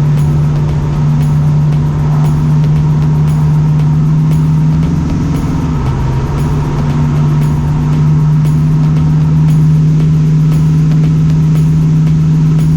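Ford 302 Windsor V8 in a 1965 Mustang running steadily under way, its pitch briefly rising then dipping about five seconds in before settling back to a steady note.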